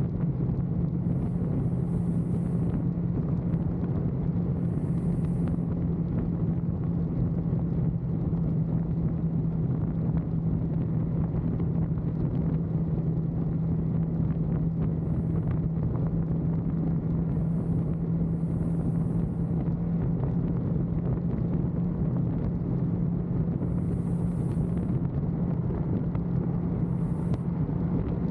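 Motorcycle cruising at freeway speed: the engine holds one steady low tone while wind and road noise rush over the rider's microphone.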